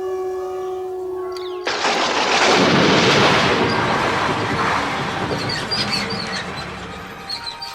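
Cartoon sound effects over music: a steady held tone, then a sudden loud rush of noise about two seconds in that swells and slowly fades away.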